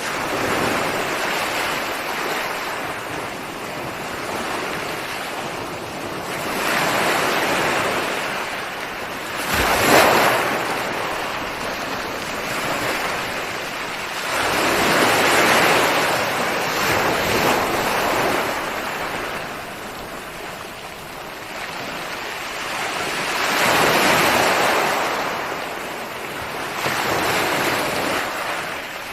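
Ocean waves breaking, a continuous wash of surf that swells and fades every several seconds, with the loudest, sharpest crash about ten seconds in.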